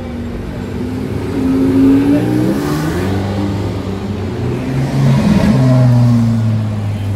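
Porsche 918 Spyder's hybrid V8 revving as it pulls away, then a LaFerrari's hybrid V12 accelerating. The engine sound swells twice, with the louder swell past the halfway point.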